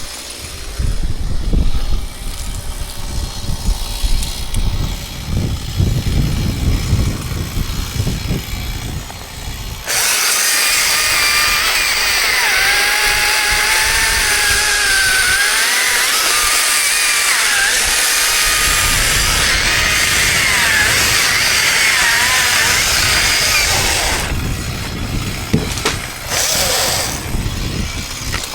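Chainsaw cutting: an uneven low rumble at first, then about ten seconds in the saw runs at full throttle for some fourteen seconds, its whine wavering in pitch as the chain bites, before dropping back.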